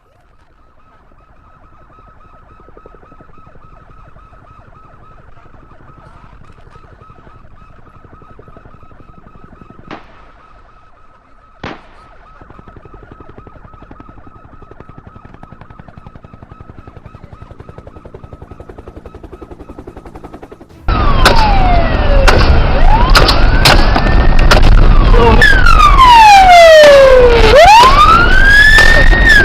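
A low, steady hum with a faint high steady tone and two sharp knocks, then, suddenly, loud police sirens wailing, with overlapping sweeps rising and falling in pitch.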